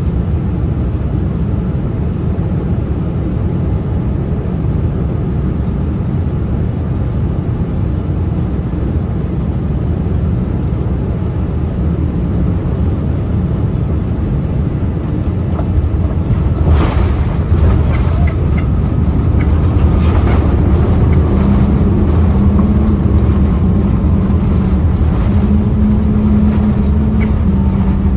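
Cabin noise inside a Boeing 787-9 on approach: a steady rush of airflow and engine noise. About two-thirds of the way in there is a sharp knock, after which a low hum comes in and steps up and down in pitch.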